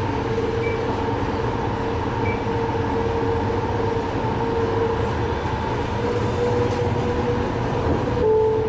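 TRAX light-rail train running, heard from inside the passenger car: a steady rumble of the wheels on the track with a sustained tone over it, shifting slightly near the end.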